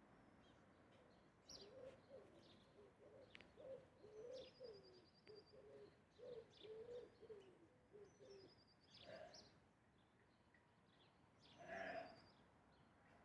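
Faint bird calls: a string of short low notes for several seconds, with high rapid trills from a smaller bird three times and two louder calls near the end.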